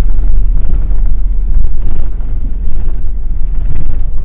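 Vehicle engine running with a loud, steady low rumble that overloads the microphone.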